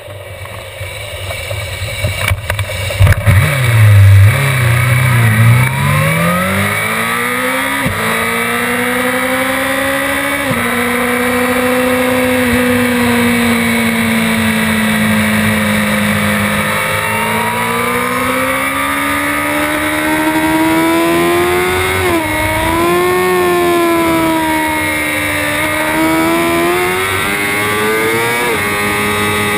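Honda CBR600RR inline-four engine of a Suter MMX Moto2 race bike, heard from on the bike. It pulls away with the revs swooping up and down, then holds fairly steady revs down the pit lane. After that it accelerates with the revs climbing, broken by quick dips at upshifts, twice in the last part.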